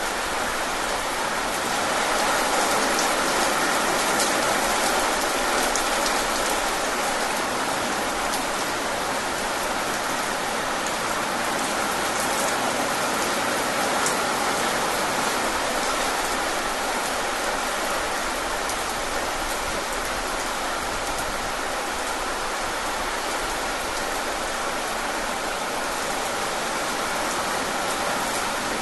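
Steady rain falling on a surface, a continuous even patter with scattered individual drop ticks.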